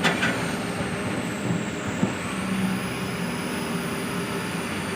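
Heavy vehicle engine running steadily, with a sharp knock at the start and another about two seconds in.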